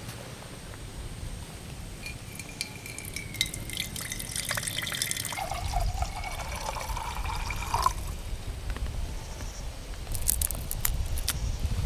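Liquid being poured into a container, the pitch of the stream rising as it fills. The pour stops suddenly about eight seconds in, followed by a few light clicks near the end.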